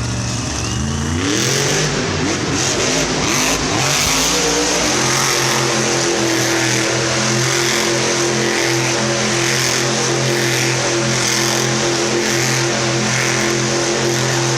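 Grave Digger monster truck's supercharged V8 engine revving up about a second in, then held at steady high revs, loud, as the truck spins donuts.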